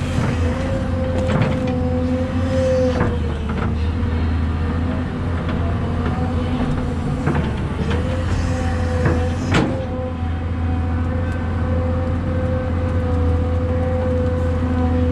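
Excavator running under load: a steady diesel rumble with a held, slightly wavering hydraulic whine, and a few sharp clanks from the bucket or tracks.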